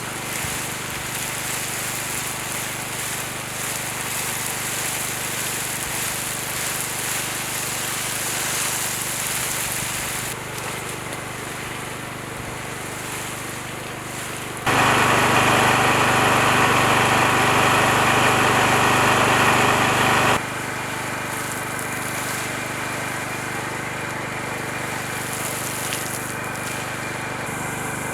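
Small generator engine running steadily. About halfway through, a much louder steady noise sets in for about six seconds and cuts off suddenly.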